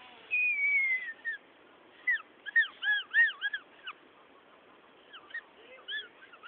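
Gum wrapper blown like a reed, giving high squeaky whistles: one long falling note near the start, then a quick run of short squeaks that rise and fall in pitch, and a few more near the end.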